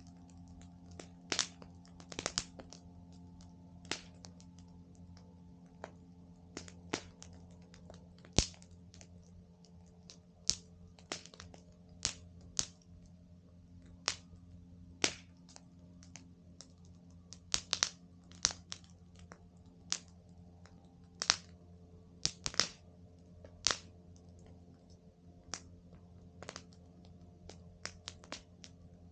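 Wood fire crackling: irregular sharp pops and snaps of burning wood, one to three a second, some much louder than others, over a faint steady hum.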